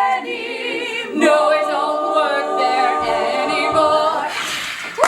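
Women's voices singing a cappella in close harmony, holding long sustained chords on the final line of the song; the chord breaks off near the end.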